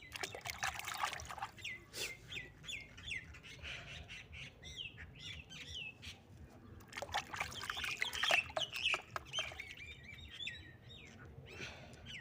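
Small birds chirping, many quick repeated chirps that fall in pitch. Bursts of splashing water near the start and again about halfway through, as toy cars are washed.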